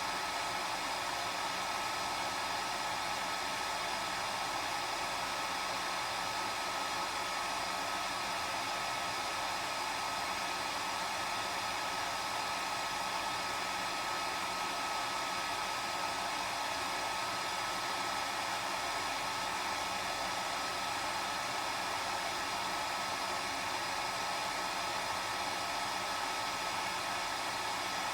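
Hair dryer running steadily: an even rush of blown air with a steady motor whine, unchanging throughout.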